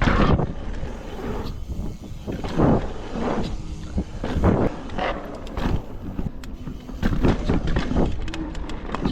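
Mountain bike ridden over a rough dirt trail: a steady rumble of knobby tyres with irregular knocks and rattles from the bike as it hits bumps and rocks.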